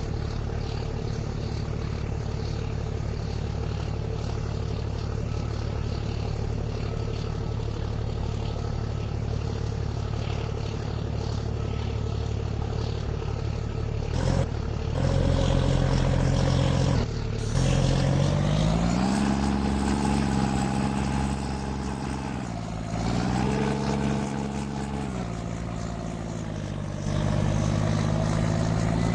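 Truck engine running steadily, then, from about halfway through, revved up and down several times with its pitch rising and falling.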